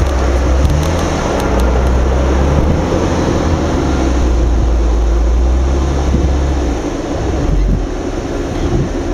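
Off-road 4x4's engine running with a steady noisy rush, likely wind on the microphone; the deep low rumble drops away about seven seconds in.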